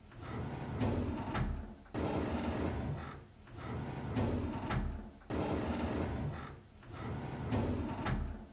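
A drawer being pulled open over and over: a rumbling slide on its runners with sharp clicks, each pull starting abruptly and repeating about every three and a half seconds.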